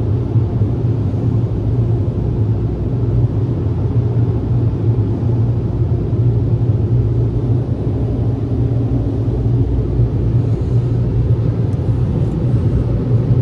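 Automatic car wash machinery running around the car, heard from inside the cabin as a steady low rumble.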